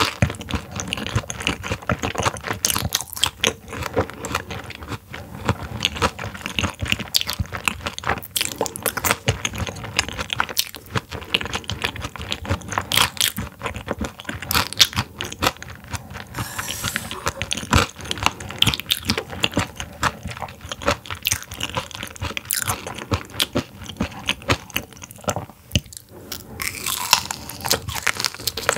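Close-up chewing and crunching of raw silver pomfret sashimi that was frozen before slicing, with many sharp, crisp crunches in quick succession.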